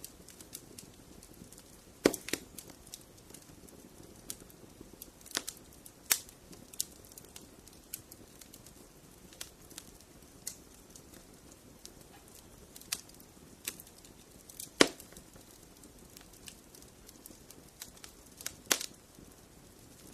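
Wood fire in a fireplace crackling: irregular sharp pops and snaps over a low steady hiss, the loudest snaps about two seconds in, near the middle-to-late part, and near the end.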